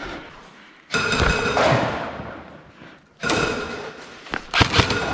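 Three sudden loud knocks or bangs, each ringing out and fading over about a second.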